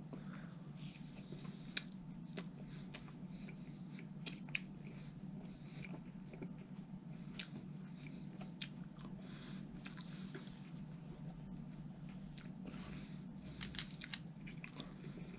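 A person chewing fried fast food with the mouth close to the microphone: irregular small wet clicks and crunches, over a steady low hum.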